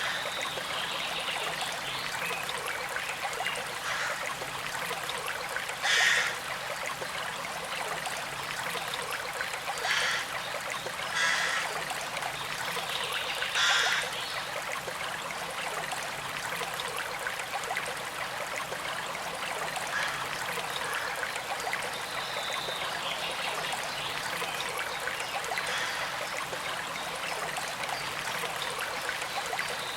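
Small creek trickling and flowing steadily over stones. A few brief louder surges in the water come between about six and fourteen seconds in.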